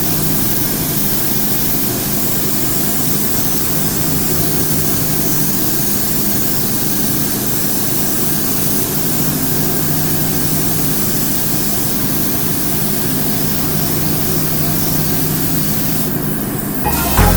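A machine running steadily, a constant low hum with an even hiss over it and no change in pitch.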